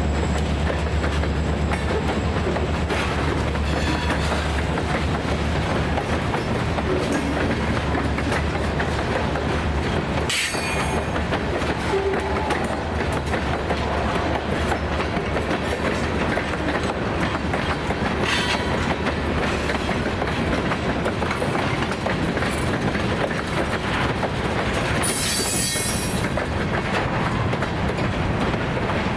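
Freight cars rolling past on jointed track, wheels clicking steadily over the rails, with a few brief high-pitched wheel squeals. A low steady drone fades out in the first few seconds.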